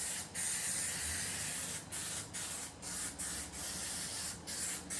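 Aerosol can of spray adhesive spraying in a long high hiss, broken by several brief pauses as the nozzle is let off and pressed again.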